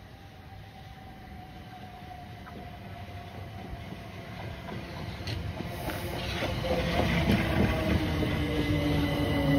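A Class 377 Electrostar electric multiple unit approaching and running past, its rumble growing steadily louder. A faint falling whine comes early, and from about halfway in come a few sharp wheel clicks on the rails, with a steady hum as the carriages go by.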